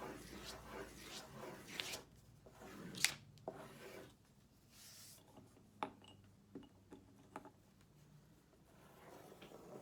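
Crayons scribbling on construction paper, quick scratchy back-and-forth strokes for the first couple of seconds, then quieter with a few sharp light clicks and taps.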